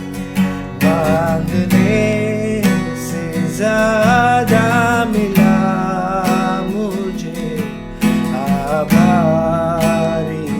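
Acoustic guitar strumming a worship-song accompaniment, with a held melody line that wavers and bends in pitch over the chords.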